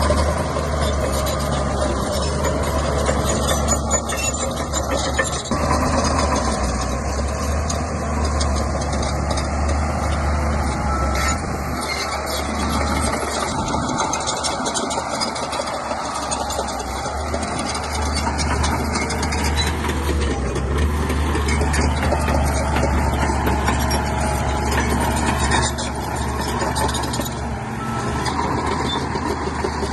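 Shantui bulldozer's diesel engine running steadily with mechanical clatter as the dozer works. The engine note drops and eases for a few seconds about midway, then comes back up.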